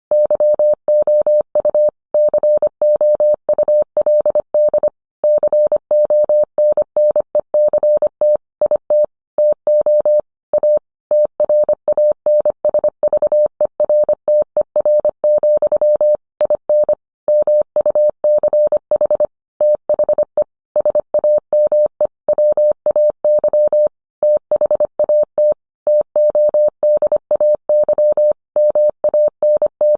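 Morse code: a single steady mid-pitched tone keyed rapidly on and off in dots and dashes, with short pauses between characters and words.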